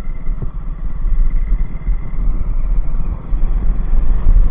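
Motorcycle running while being ridden, heard as a heavy, uneven low rumble of engine and road noise.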